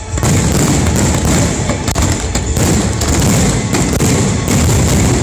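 Aerial firework shells bursting in a dense, continuous barrage, many booms overlapping with barely a pause between them.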